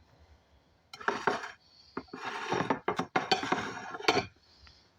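Kitchen cookware and utensils being handled: a quiet start, then a run of clinks and knocks with clatter between about one and four seconds in.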